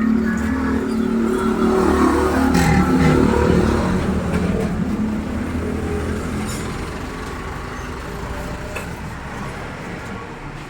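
Yanmar TS190R single-cylinder diesel engine of a Denyo D300 engine-driven welder running steadily. It dips briefly in pitch about three seconds in, then grows gradually quieter over the second half.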